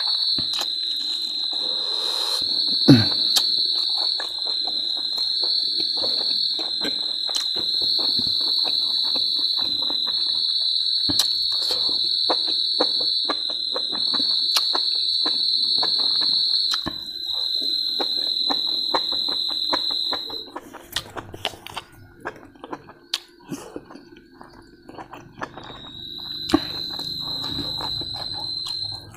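Close-up chewing, smacking and mouth clicks of someone eating mushrooms and pork, under a loud, steady high-pitched whine. The whine cuts out about twenty seconds in and returns near the end.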